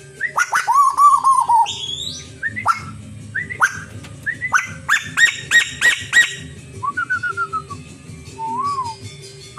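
A tame pet bird calling in loud whistles: sharp upswept notes, a wavering whistle about a second in, a rapid run of strong notes around the middle, then softer slurred whistles near the end.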